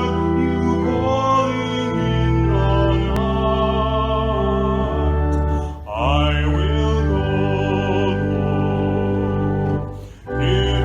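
Organ music: held, wavering chords that change every second or two, with a brief break about six seconds in and another near the end.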